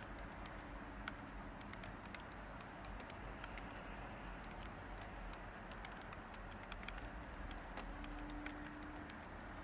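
Light, irregular typing on a computer keyboard: scattered soft key clicks over a steady background hiss of white noise.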